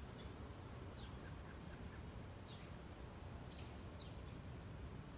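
Outdoor yard ambience: a steady low rumble with faint, short bird chirps every second or so.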